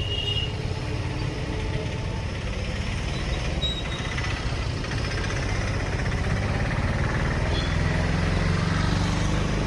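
A motor vehicle's engine running with a steady low rumble and road noise, swelling slightly near the end.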